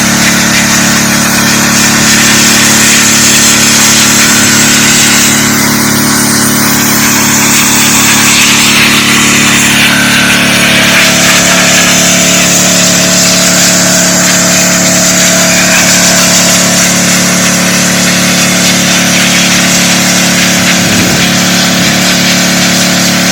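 DeWalt 3600 psi gas pressure washer running steadily, its engine note under the loud hiss of the high-pressure water jet, which swells and eases as the spray moves.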